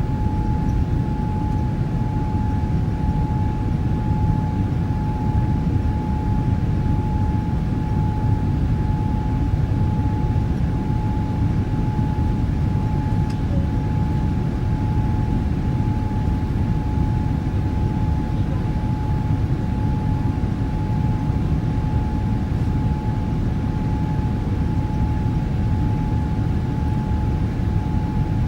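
Cabin noise of an ANA Boeing 787-8 with its Rolls-Royce Trent 1000 jet engines under power during takeoff: a steady low rumble of engine and airflow with a steady whine running through it.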